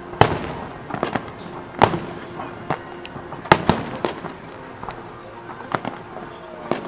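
Fireworks bursting overhead: sharp bangs at irregular intervals, roughly one a second, some in quick pairs, each with a short echoing tail.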